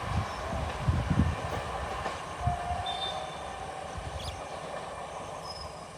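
A train rolling past, its wheels thumping irregularly over the rails. The clatter gradually fades as the train draws away.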